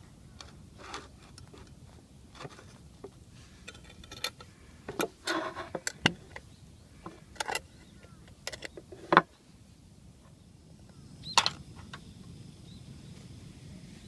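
Irregular clattering and knocking of objects being handled, busiest in the middle, with a sharp knock about nine seconds in and another about eleven and a half seconds in, over a low steady outdoor background.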